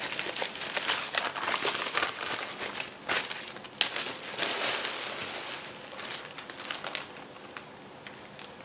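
Packaging crinkling as it is handled by hand, with many quick crackles that thin out and die away near the end.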